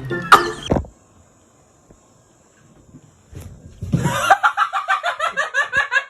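A chicken clucking in a fast run of short calls, about five a second, starting a few seconds in after a quiet gap. It is preceded by a snatch of music that cuts off with a sharp sound in the first second.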